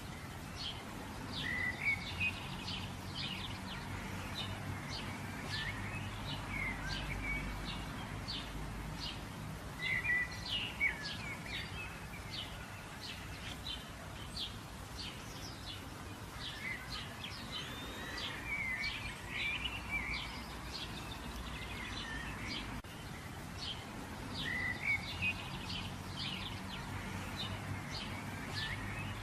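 Birds chirping and twittering in short, high calls that come in clusters, over a steady low background hum.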